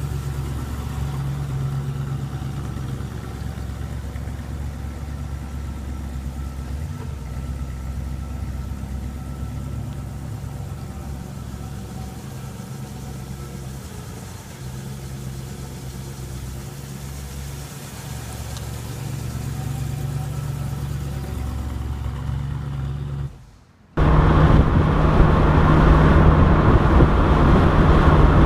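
A 1965 Ford Mustang's 302 V8 with automatic transmission running at low speed, a steady low engine hum that swells and eases a little. About 24 seconds in it cuts to the car cruising at highway speed, louder, the engine note under wind and road noise.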